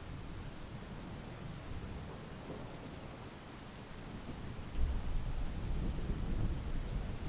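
Steady rain falling, with a deep rumble of thunder that swells up suddenly about two-thirds of the way through and keeps rolling.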